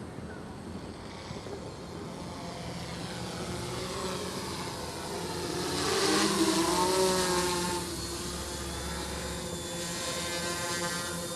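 Multirotor drone's brushless motors and propellers whining as it flies fast, the pitch bending up and down with changes in throttle. It is loudest from about six to eight seconds in, as it passes close.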